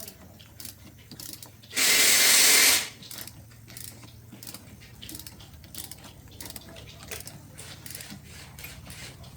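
Scattered light mechanical clicks of hand tools at work on a motorbike over a low steady hum, with one loud hiss about two seconds in that lasts about a second.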